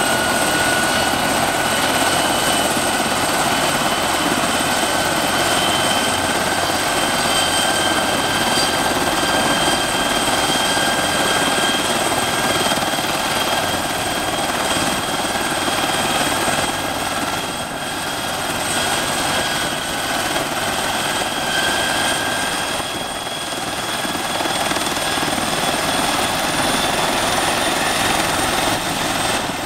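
Bell 412 helicopter's twin turboshaft engines running on the ground before takeoff: a steady turbine whine at several pitches that slowly rises, over a constant rotor and engine rush.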